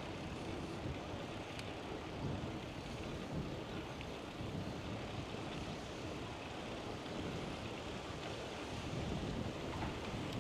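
Steady wind noise rushing over the microphone of a camera on a moving bicycle.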